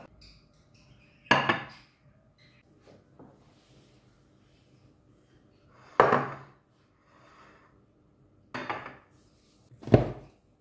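Kitchen dishes and utensils set down and knocked on a counter: four separate sharp knocks with a short ring, a few seconds apart, and small clinks between them.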